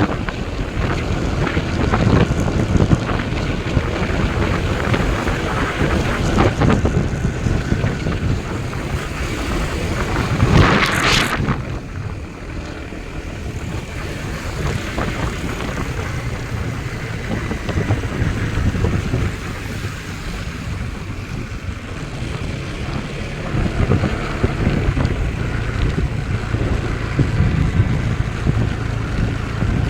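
Steady wind buffeting the microphone over a low rumble, with a brief louder rush of hiss about eleven seconds in.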